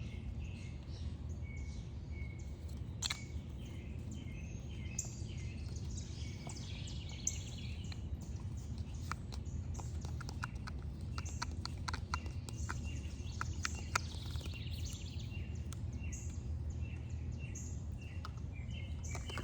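Songbirds chirping over a steady low background rumble, with a run of small sharp ticks a little past the middle.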